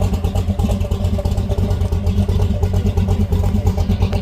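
Classic car engine running with a loud, steady low exhaust rumble that pulses rapidly and evenly.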